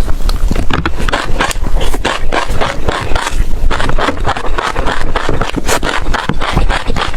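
Close-miked chewing of crunchy seeds: a dense, continuous run of small cracks and crunches as they are bitten and ground in the mouth.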